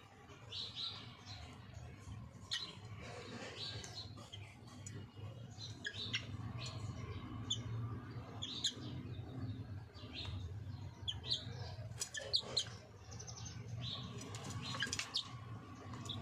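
Chicken giving many short, high chirps at irregular intervals, with some sharp clicks or rustles and a steady low hum underneath.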